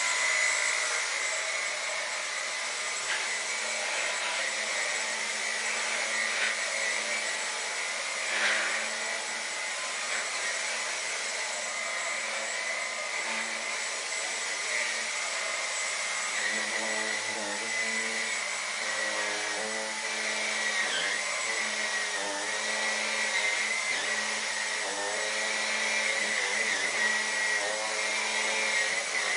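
Dyson V10 Animal cordless stick vacuum running steadily with a high, constant motor whine, its turbine brush attachment working over sofa upholstery.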